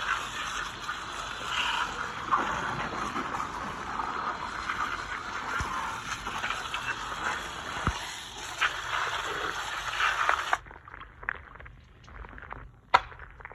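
Water spraying onto a car's engine bay, a steady hiss and splatter that stops abruptly about ten seconds in. After it come scattered drips and small clicks, with one sharp click near the end.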